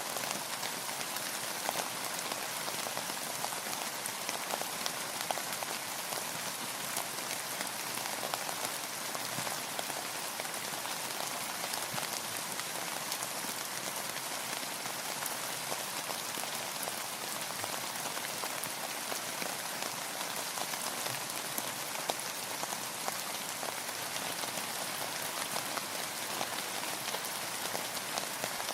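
Steady rain falling, a dense even hiss with many small drop taps on a surface.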